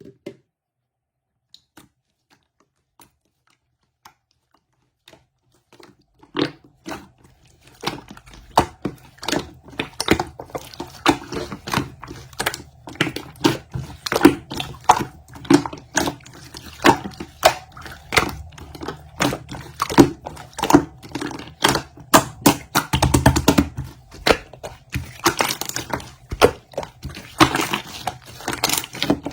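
Close handling noises: a few faint scattered ticks, then from about six seconds in a dense, irregular run of sharp clicks and crackles over a low hum.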